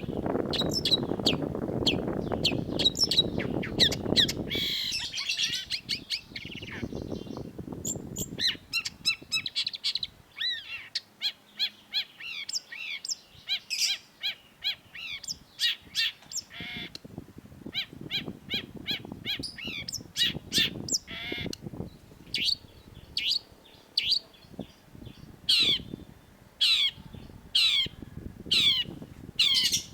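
Long-tailed shrike singing a fast, varied run of sharp chirps and trills. Near the end it changes to a series of piercing notes that drop steeply in pitch, about one a second. A low rumble of background noise lies under the song for the first few seconds.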